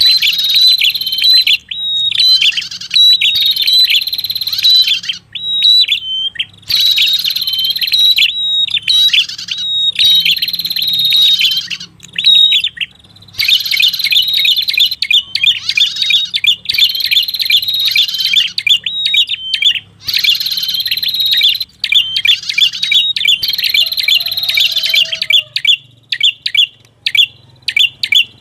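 Lure recording of red-headed prenjak calls: rapid, sharp, high chirps repeated in runs of a second or two with short gaps between them.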